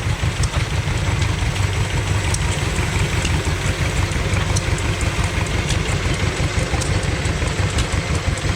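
Old exhibition engines running steadily at idle: a continuous low engine hum with faint ticking on top.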